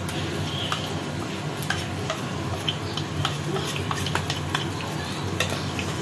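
Whole spices sizzling in hot oil in a kadai as ginger garlic paste goes in, with frequent light clicks of a metal spoon scraping the paste from its bowl.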